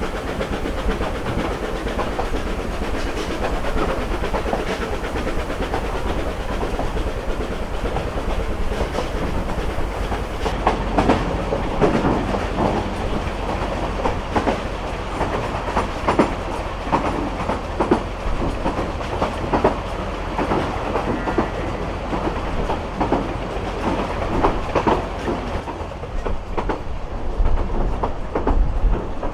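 Vale of Rheidol Railway narrow-gauge steam train under way, with a steady running noise and the wheels clicking over the rail joints. The clicks come thicker and more distinct from about ten seconds in.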